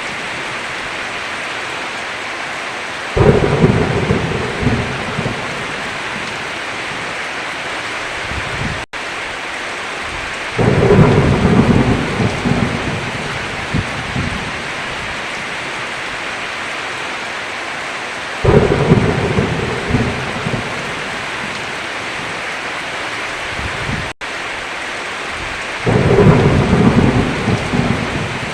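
Heavy rain falling steadily, with thunder rumbling four times, each roll lasting a few seconds. The sound cuts out for an instant twice.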